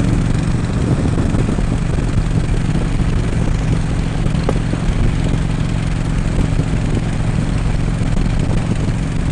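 Harley-Davidson Road King's V-twin engine running at a steady cruise, a constant low drone over an even rush of road and wind noise.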